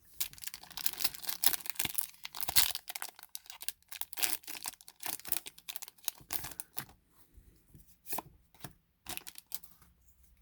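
Foil booster-pack wrapper being torn open, crackling and crinkling densely for about seven seconds, then sparser rustles and clicks as the cards are handled.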